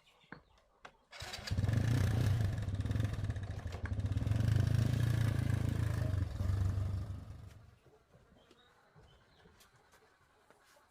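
Motorbike engine running, starting suddenly about a second in, holding for about six seconds, then fading out.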